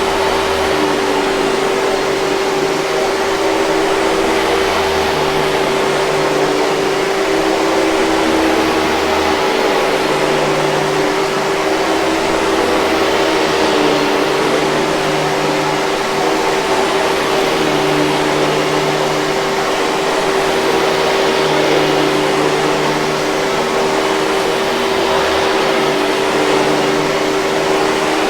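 Hoover 5000 Series canister vacuum cleaner running steadily, a constant rush of air with a steady motor whine.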